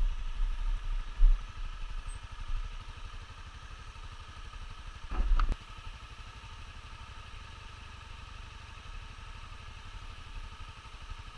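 Motorcycle engine idling with an even low pulse, with a louder low rumble about five seconds in and a sharp click just after it.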